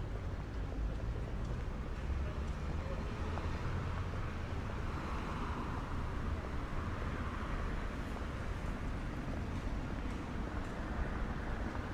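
City street traffic: a steady low rumble of road noise, with a passing vehicle swelling and fading about midway and another approaching near the end.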